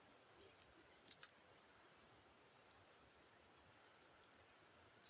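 Near silence in forest, with a faint, steady, high-pitched insect trill and a few faint ticks about a second in.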